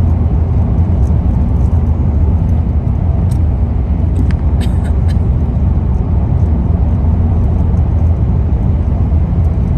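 Steady low rumble of a car driving, engine and tyre noise heard from inside the cabin, with a few faint ticks a few seconds in.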